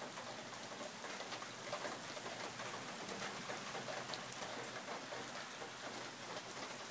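Steady rain falling, an even hiss with scattered ticks of drops hitting surfaces.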